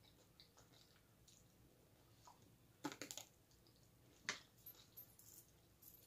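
Faint eating sounds of a person chewing chicken wings, with a few sharp mouth or food clicks: a quick cluster about three seconds in and one more a little after four seconds.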